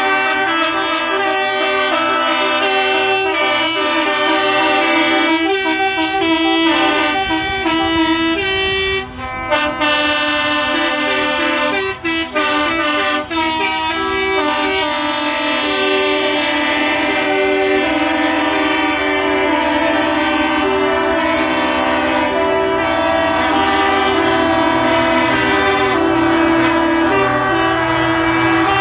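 Several truck air horns sounding together in a continuous chorus of overlapping steady tones, briefly dropping out and restarting a few times about a third of the way in.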